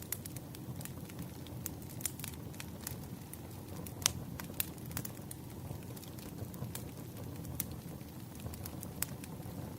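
Campfire burning: a steady low rumble with irregular sharp crackles and pops of the burning wood, the loudest about four seconds in.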